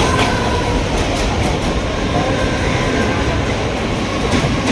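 Mumbai suburban local train (a 12-car electric multiple unit) running, heard from its open doorway: a loud, steady rumble of wheels on rails with a few faint clicks.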